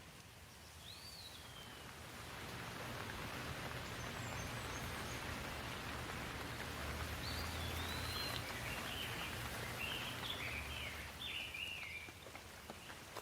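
Steady rain hiss that swells over the first few seconds, with a bird calling over it: one call about a second in, then a run of chirping calls in the second half.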